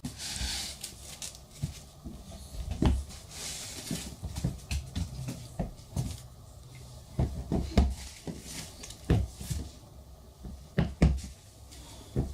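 Toys being handled and set down: irregular knocks, clicks and soft thumps, several close together in places, with some rustling.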